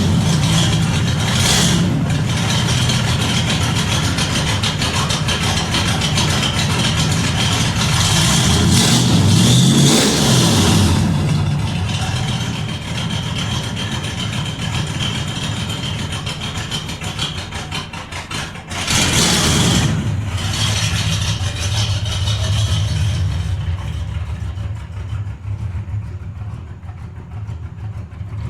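Big-block Ford 460 V8 running on a cold start without a choke, revved up and back down about ten seconds in and blipped again about nineteen seconds in, then settling to a steadier idle. It is cold-natured because its Holley Street HP carburettor has no choke.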